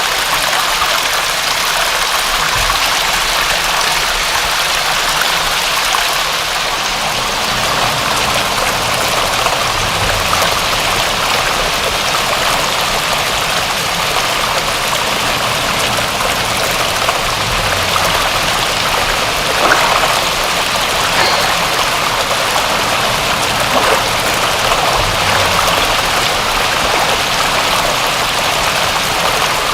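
Steady rain: an even hiss of falling water, with a few louder ticks of single drops in the second half.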